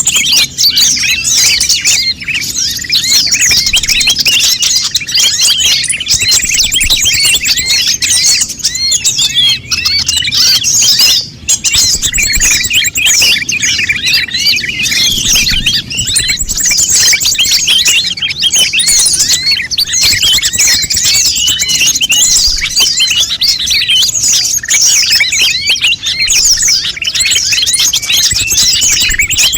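Konin birds calling busily together: a dense, unbroken chatter of overlapping high chirps and twitters, with a brief lull about eleven seconds in.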